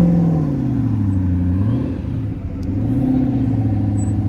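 A sports car's engine revving as it drives off. Its pitch falls over the first second and a half, then holds, and rises again about three seconds in.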